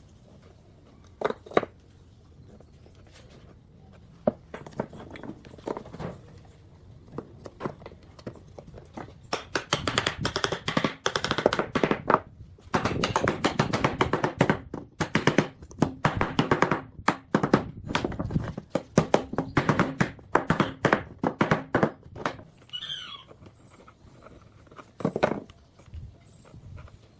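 Quick, irregular knocks and taps on wood, scattered at first, then coming in dense rapid runs through the middle, and thinning out again toward the end.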